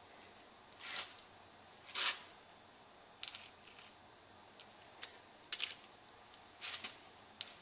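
Handling of a torque wrench and socket on an engine's connecting rod bolts: a string of short metallic clicks and scrapes, with one sharp click about five seconds in.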